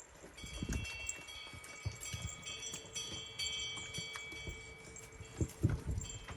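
Small bells on Jindo puppies' collars jingling and ringing as the puppies move, several tinkling tones overlapping. Low irregular rumbles of wind buffeting the microphone underneath.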